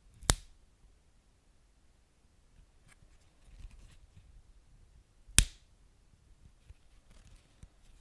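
Wood fire burning, with two sharp pops about five seconds apart, the first just after the start, and faint crackling ticks and a soft low rumble between them.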